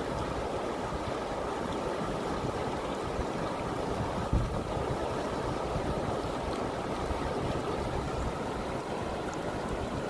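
Fast river water rushing steadily, with a low bump of wind on the microphone about four seconds in.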